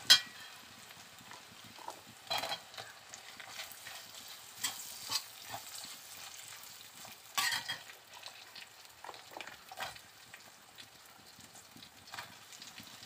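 Chopped onions, garlic, ginger and curry leaves frying in hot oil in a black iron wok, with a faint steady sizzle. A plastic spatula stirs them against the pan, giving a few scraping strokes a second or more apart.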